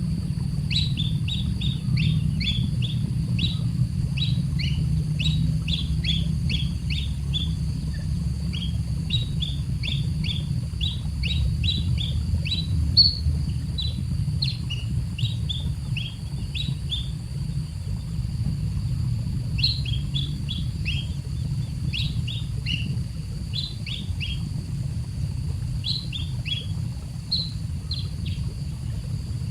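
A baby bird peeping over and over, with short high chirps that slide down in pitch and come in quick runs with brief gaps. A steady low rumble runs underneath.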